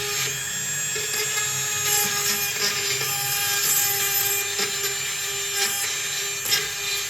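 A power tool runs steadily with a constant hum and a scraping noise over it.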